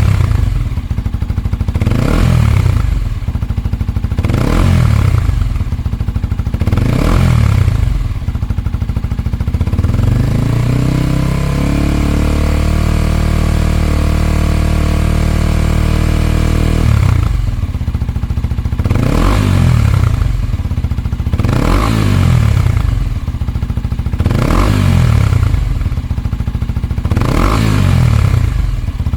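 Kawasaki Ninja 250SL single-cylinder engine running through a Yoshimura R-77S Cyclone slip-on exhaust, revved in short blips about every two seconds. Near the middle it climbs and is held at a steady higher speed for about five seconds, then drops back and the blips resume.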